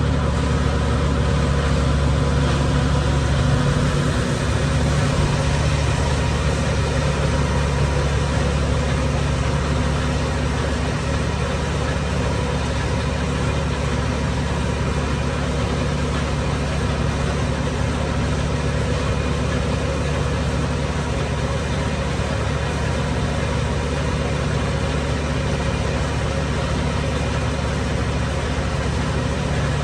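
Farm machinery running steadily while ear corn is ground: a constant low engine drone with a steady hum of tones above it.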